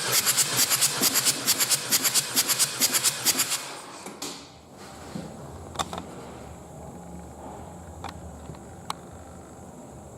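Ford 2.0 TDCi diesel engine being turned over by its starter, a rhythmic beat of about seven compression strokes a second that stops about three and a half seconds in. A few faint clicks follow over a low hum.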